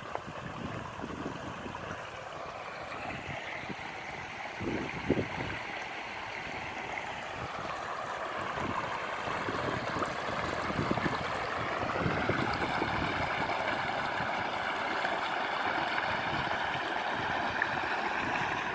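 Shallow water babbling and gurgling steadily along a small stream channel, growing louder about halfway through. A few brief low bumps around five seconds in.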